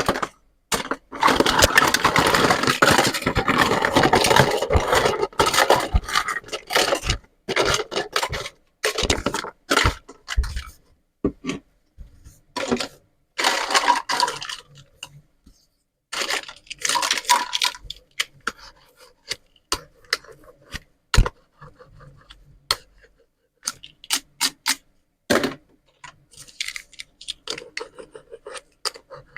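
Plastic toy play-food pieces from a pizza and vegetable set being handled: a long stretch of scraping and rustling, then many small sharp clicks and knocks with short scrapes.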